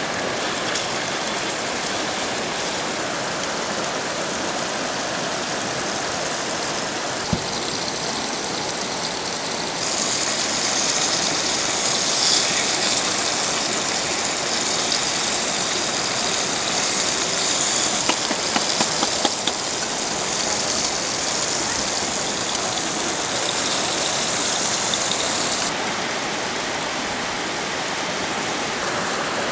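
Heavy rain and rushing water, a steady loud hiss. About a third of the way in it suddenly turns louder and hissier, then drops back abruptly near the end.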